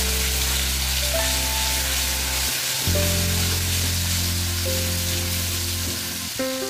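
Ground chili and shallot spice paste sizzling hard in hot oil in an aluminium wok, stirred and spread with a metal spatula: the paste being sautéed. The sizzle stays steady, easing slightly toward the end.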